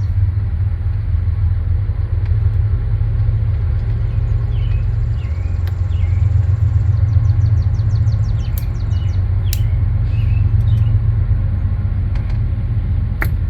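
A steady low rumble throughout, with a few sharp clicks now and then, about a second or more apart, and faint short chirps in the background.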